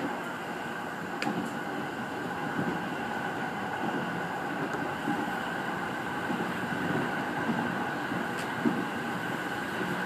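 JR 209 series electric train running along the track, heard from inside the cab: a steady rumble of wheels on rail with a steady high whine over it, and a few sharp clicks, one about a second in and another near the end.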